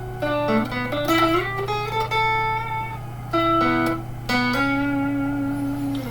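Fender Stratocaster electric guitar, freshly strung with YAMAHA 009–042 super light strings, played clean through an amp. It plays a melodic line of picked single notes, with a long held note near the end, over a steady low hum.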